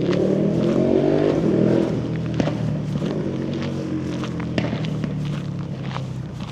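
A motor vehicle passes: its engine is loudest in the first couple of seconds, then fades away. Footsteps continue beneath it.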